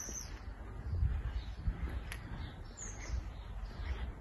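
Scattered chirps of small garden birds, one clearer gliding call about three seconds in, over an uneven low rumble on the microphone.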